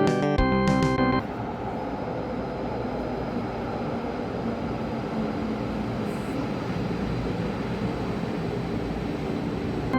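Background music cuts off about a second in, giving way to a light-rail train running: a steady, even rumble of wheels on rail.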